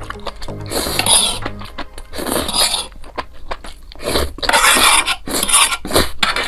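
Close-miked eating noises: repeated noisy bursts of mouth sounds with cutlery scraping on a bowl, over background music with a bass line.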